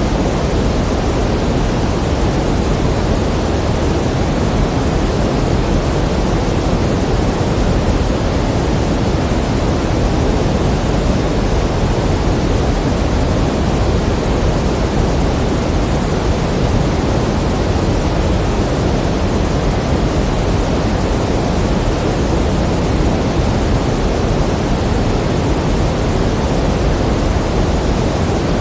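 Steady pink noise: an even, unchanging hiss-like rush weighted toward the low end, with no tones or events.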